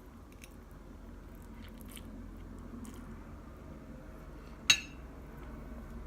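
Close-up eating sounds: a person biting and chewing food, with faint small mouth clicks. One sharp click comes about four and a half seconds in.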